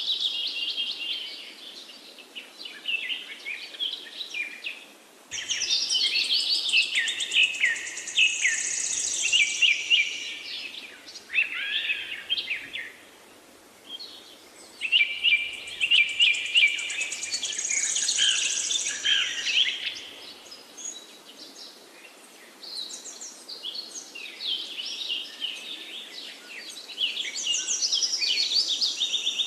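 Birds chirping and singing in many overlapping quick trills and whistles, coming in bursts with short lulls between.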